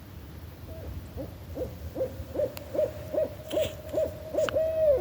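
Barred owl calling: a run of about ten quick hoots, about two and a half a second, growing louder and ending on a longer held note that starts to slide down.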